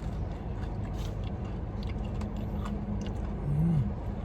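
Someone eating ice cream: small spoon clicks and chewing over a steady low rumble. A short low hum rises and falls about three and a half seconds in.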